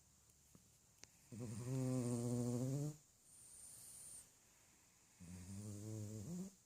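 A Yorkshire terrier snoring super loudly: two long buzzing snores, about four seconds apart, with a softer breathy hiss after the first.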